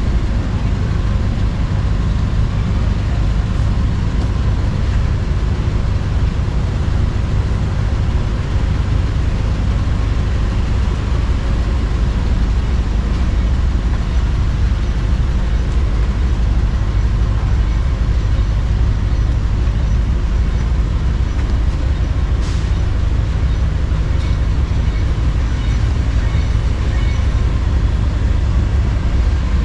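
Steady low rumble of city street traffic, with a couple of faint clicks.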